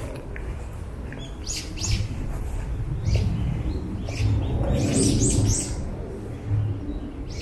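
Birds chirping: a few short high calls, with a quick run of three or four about four to five seconds in, over a low rumble.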